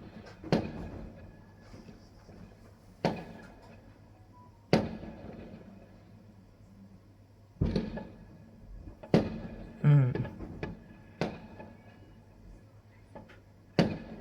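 Fireworks exploding, about eight separate sharp bangs at irregular intervals, each with a short echoing tail.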